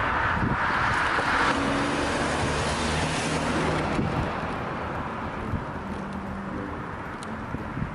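Road traffic noise with a vehicle engine running. A rushing hiss is strongest for the first second and a half, and the sound slowly eases off after that.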